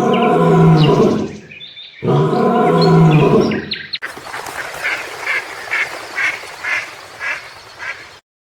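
Ducks quacking: two long, loud drawn-out calls, then a run of short quacks about twice a second over a noisy background, cutting off suddenly near the end.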